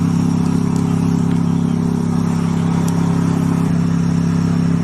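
A vehicle engine running at a steady, unchanging pace, a constant low drone with road noise.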